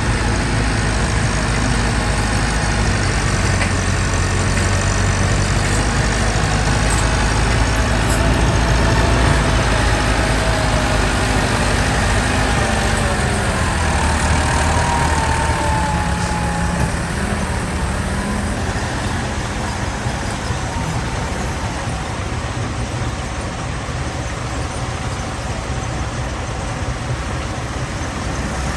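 Primary jaw crusher and heavy diesel machinery at a rock quarry running steadily, a dense continuous rumble with a brief wavering whine about halfway through.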